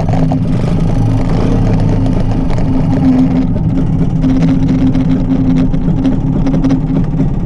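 The single-cylinder Sachs two-stroke engine of a Rabeneick LS175 motorcycle running steadily as the bike is ridden at low speed, heard close up.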